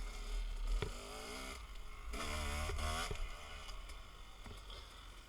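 Dirt bike engine revving up and down in two bursts, about a second in and again around two to three seconds in, with wind rumbling on the microphone throughout.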